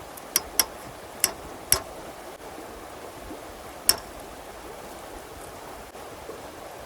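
A steady rushing noise like flowing water, with five sharp clicks or knocks: four in the first two seconds and one louder one about four seconds in.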